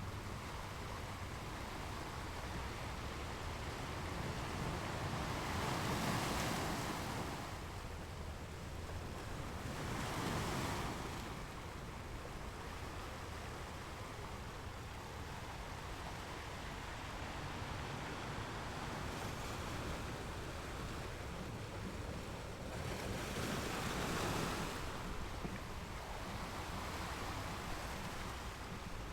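Gentle ocean waves washing onto a sandy beach: a steady hiss of surf, swelling louder three times as waves break, twice in the first half and once more near the end.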